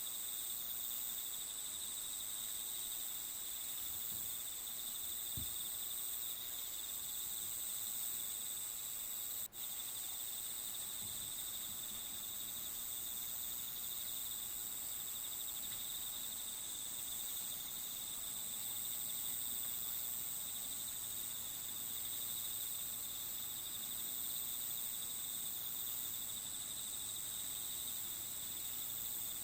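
Steady chorus of crickets chirping, with a momentary break about nine and a half seconds in.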